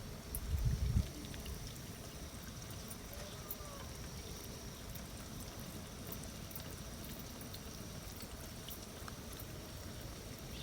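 Faint steady trickle or pour of water, with a few low knocks in the first second.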